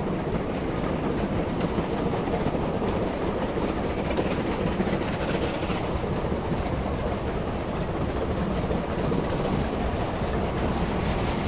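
A steam-gala train running past on the heritage line, a steady rumble of wheels on the rails.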